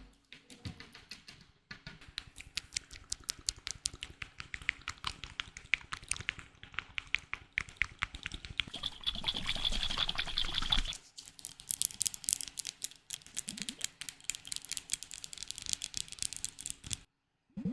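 Rapid tapping and clicking on small objects, many taps a second, with a louder rustling stretch about halfway through before the tapping resumes. It cuts off suddenly near the end.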